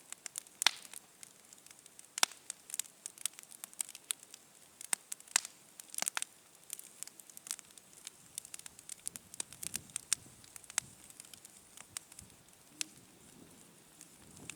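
A fire crackling, with irregular sharp snaps and pops, several a second, some much louder than others.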